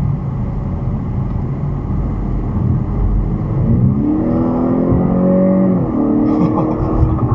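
Car engine accelerating over steady road rumble: its pitch climbs for about two seconds, drops suddenly at a gear change about six seconds in, then holds steady.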